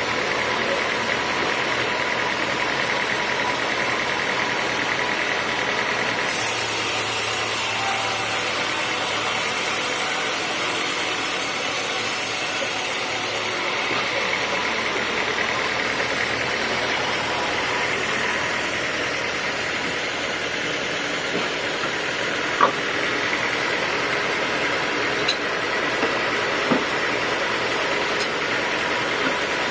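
Sawmill machinery running steadily while sawing teak, with an added hiss from about six to fourteen seconds in and a few sharp knocks in the last third.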